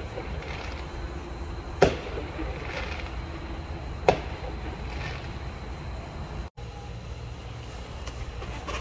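Two sharp fireworks bangs about two seconds apart, with fainter pops between them, over a steady low rumble.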